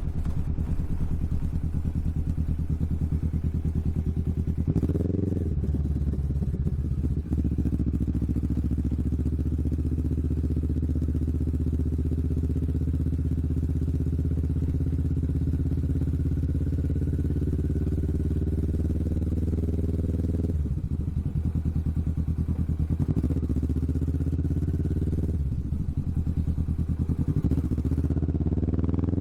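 Kawasaki Vulcan S motorcycle's parallel-twin engine through an aftermarket Hoonk twin exhaust, under way at a steady cruise. The engine note dips briefly a few times, as at gear changes, and rises in pitch near the end as the bike accelerates.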